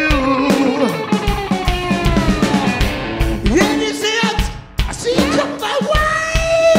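Live rock band playing: guitar with sliding melodic lines over bass and a drum kit. The music drops briefly about four and a half seconds in, then comes back.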